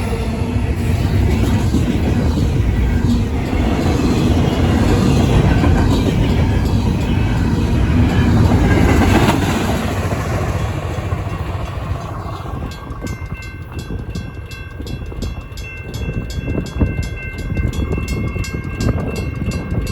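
Union Pacific intermodal stack train passing over a grade crossing, its wheels rumbling and clacking over the rails. About two-thirds of the way in the train noise eases, and the crossing bells, an electronic bell and a mechanical bell, come through ringing rapidly and steadily while the cars keep rolling by.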